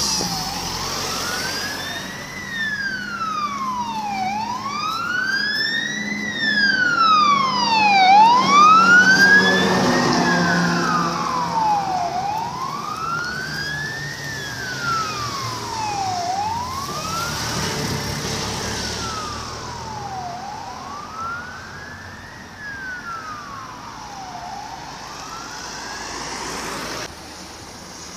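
Scania CAS 20 fire engine running on an emergency call with its siren wailing, slowly rising and falling about once every four seconds, over the truck's engine. It is loudest about a third of the way in as it goes by, then fades as it drives away.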